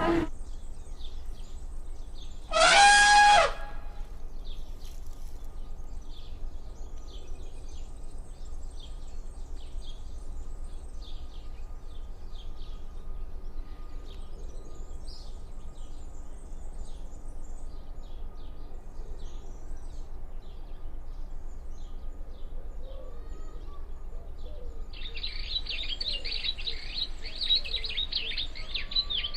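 Birds chirping over a steady low rumble. About three seconds in comes one loud call with a strong pitched tone, lasting about a second. Near the end a dense buzzing starts and runs for about four seconds.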